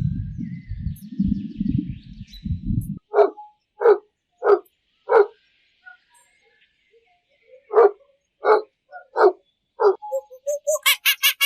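A dog barking: two runs of four loud barks, about two-thirds of a second apart, with a pause between the runs. Before the barks there is a low, uneven rumble, and near the end a fast run of short high-pitched calls begins.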